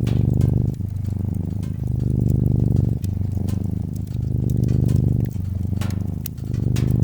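Domestic cat purring steadily, the purr swelling and fading with each breath about every two seconds, over the scattered pops and crackles of a wood fire in a fireplace.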